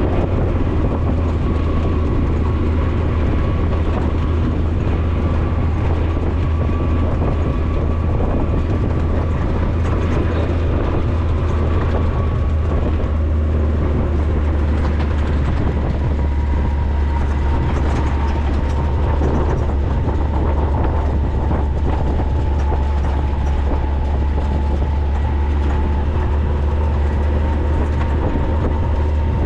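Maverick 4x4's engine and drivetrain running steadily under way, a constant low drone with faint steady whining tones above it, heard from on board.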